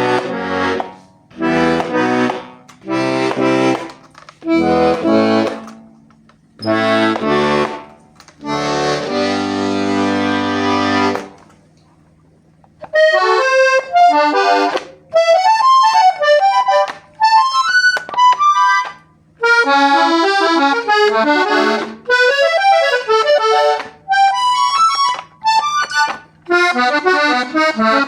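Hohner Corona II three-row diatonic button accordion in A/D/G being played: first a series of held chords with bass notes, each about a second long, then a longer chord of about two seconds. After a short pause, quick melodic runs up and down the treble buttons follow.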